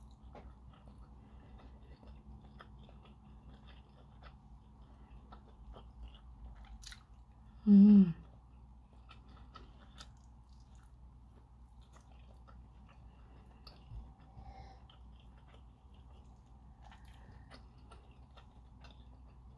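Close chewing and eating mouth sounds of someone eating lamb rendang and rice by hand: soft wet smacks and many small clicks over a faint steady hum. One short, loud vocal sound comes about eight seconds in.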